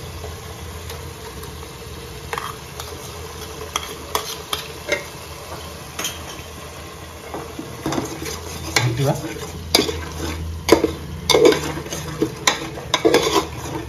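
Onion paste frying in mustard oil in an aluminium pot with a steady sizzle. From about eight seconds in, a wooden spatula stirs it with repeated scrapes and knocks against the pot.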